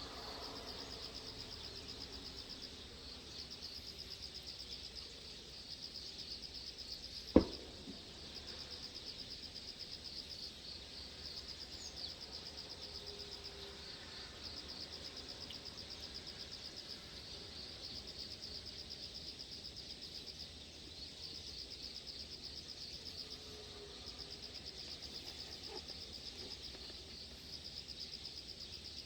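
Insects trilling steadily in a high, evenly pulsing chorus, with a single sharp click about seven seconds in.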